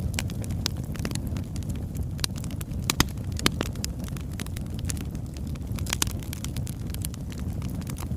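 Oak logs burning in a fireplace: a steady low rumble of flame with frequent sharp crackles and pops, a few louder pops about three, three and a half and six seconds in.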